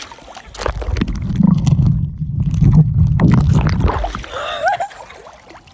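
Muffled low rumble and gurgle of water moving against a phone's microphone as it is dunked underwater, lasting about three and a half seconds, followed by a few short high pitched sounds as it comes back up.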